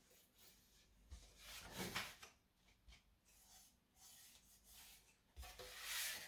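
Faint rubbing and scraping of handling, with two louder scrapes, one about two seconds in and one near the end.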